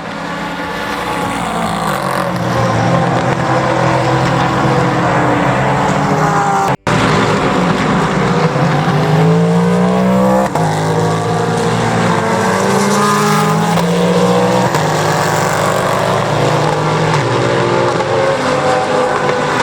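Endurance sports-car racing cars running through the tight infield corners of Daytona International Speedway. Several engine notes overlap, their pitch rising and falling as the cars pass, brake and accelerate away.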